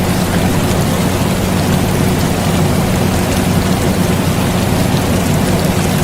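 Steady rain with faint pattering drops, layered over the constant hum and whoosh of an air conditioner.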